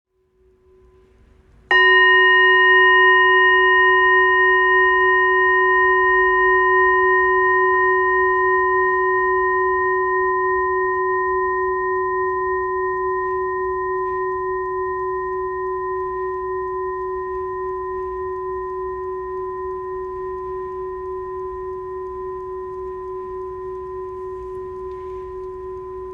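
A Buddhist bowl bell struck once, about two seconds in, ringing with a clear low tone and several higher overtones that fade slowly over more than twenty seconds, with a gentle pulsing wobble as it dies away.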